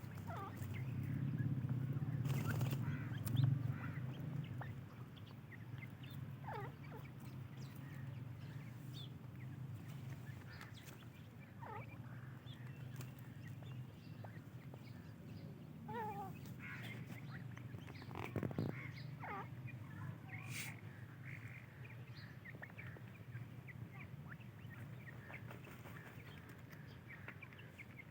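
Francolin (teetar) chicks giving scattered short peeping calls that slide in pitch, heard over a steady low hum that is louder in the first few seconds.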